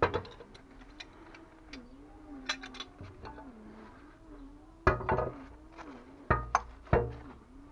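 Scattered sharp clicks and knocks of plumbing fittings and tools being handled, with a cluster of louder knocks near the end, over a faint wavering tone.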